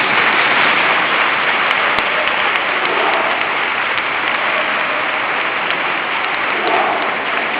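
Crowd applauding loudly and steadily, with a sharp start as the singing ends.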